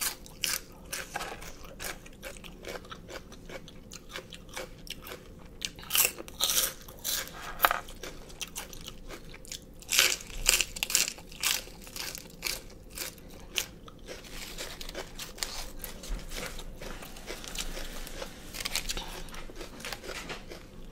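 Close-miked chewing of crunchy pig ear and raw greens: a run of sharp crunches, loudest in clusters about six and ten seconds in, easing to softer chewing over the last several seconds.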